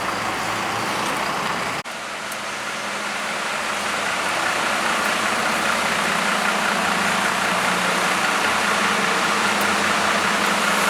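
Bus engine running steadily, a low hum under a continuous hiss; the sound breaks off sharply about two seconds in and carries on the same way.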